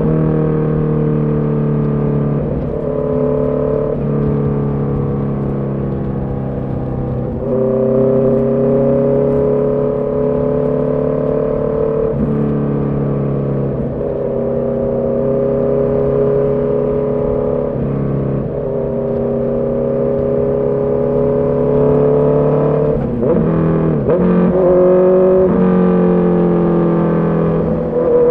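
Honda CB650R's inline-four engine and exhaust under way, its pitch stepping and settling every few seconds as the throttle and gears change, with a cluster of quick drops and rises near the end.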